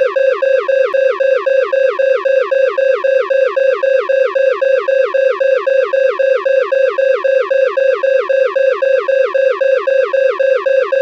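Loud electronic alarm: a buzzy synthetic tone pulsing rapidly and evenly, about four beeps a second, each beep starting with a quick downward slide in pitch, without change.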